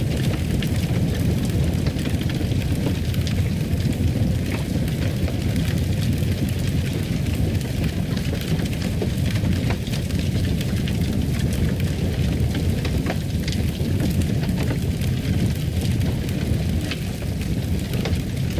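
Fireplace fire crackling: frequent small pops and snaps over a steady low noise.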